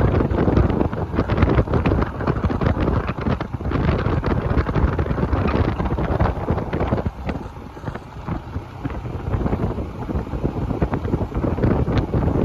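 Wind buffeting the microphone on a moving motorcycle, a gusty rumble that eases for a couple of seconds about seven seconds in.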